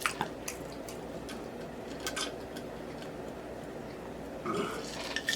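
A few light clicks and taps from dishes or food containers being handled, over a steady low background hum: a couple of clicks near the start and another pair about two seconds in.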